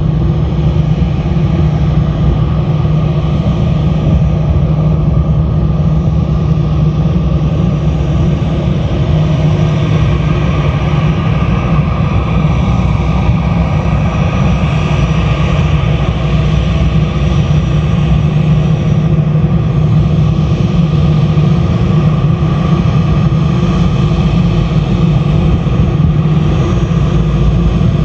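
Jet airliner engines running loud and steady, with a deep hum under a hissing roar that swells in the middle.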